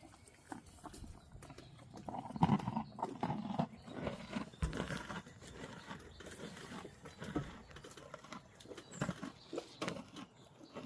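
Horse close by: a low pitched vocal sound about two seconds in, followed by irregular soft clicks and rustles.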